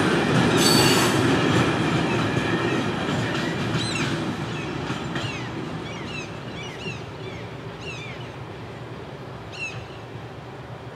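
Freight train wagons rolling past and fading away, wheels rumbling, with a brief high wheel squeal about half a second in. As the rumble dies away, birds chirp in short falling notes.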